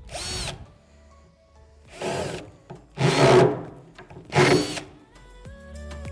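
Power drill driving screws into wood in four short bursts, the motor whining up and dropping off with each run.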